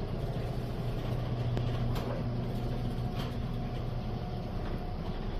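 Steady hum of a Porsche's engine with road or cabin noise, heard from inside the car.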